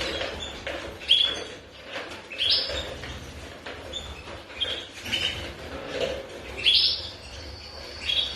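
Domestic canaries chirping: a series of short, high, rising chirps repeated every second or so, with a steady high note starting near the end.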